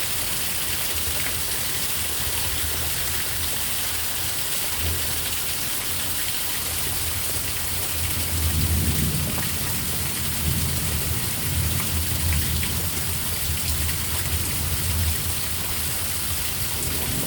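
Heavy thunderstorm downpour: a steady hiss of pouring rain, sounding like raging water. About halfway through, a low rumble swells and lasts several seconds.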